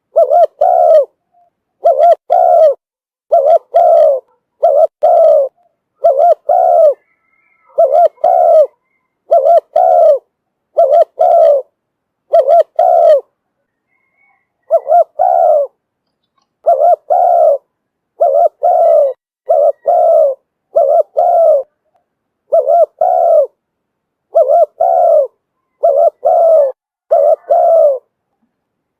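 Spotted dove cooing over and over, a decoy call used to lure wild doves in. The coos come in short pairs about once a second, loud, with a brief pause about halfway.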